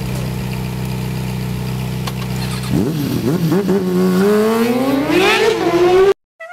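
Vehicle engine running steadily, then about three seconds in it revs and climbs steadily in pitch as it accelerates, until it cuts off suddenly near the end.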